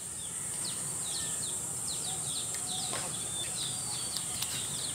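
Birds chirping, many short quick notes that fall in pitch, repeated throughout, over a steady high-pitched buzz.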